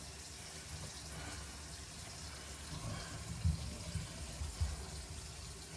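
Bathroom sink faucet running steadily into the basin, with a few low thumps about halfway through.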